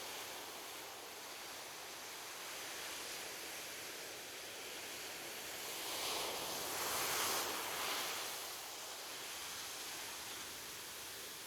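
Gentle ocean waves on a beach: a steady hiss of surf, with one wave swelling up and breaking past the middle, then washing away.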